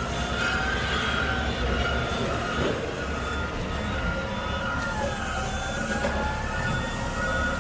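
A garbage truck's engine and drivetrain running with a steady low rumble. Over it sits a thin high whine that wavers and glides up and down in pitch, mostly a little past the middle.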